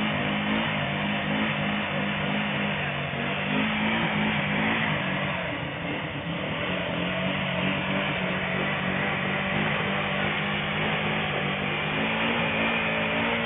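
Off-road vehicle engine running under load, its pitch rising and falling as it is revved, and easing off briefly about five seconds in.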